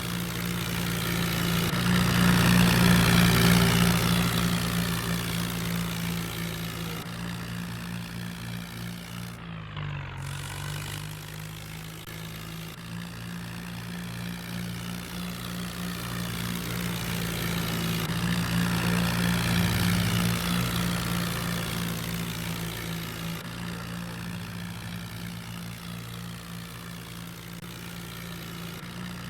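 Tractor diesel engine running steadily. It grows louder and fades as it passes, twice, with an abrupt change about ten seconds in.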